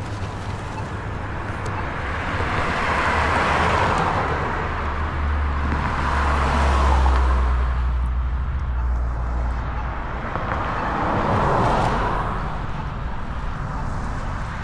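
Road traffic: about three cars passing by one after another, their tyre noise swelling and fading, over a steady low rumble.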